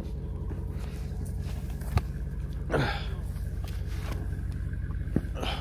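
Jeep Wrangler engine idling with a steady low rumble. Two sharp knocks come about two seconds in and again near the end.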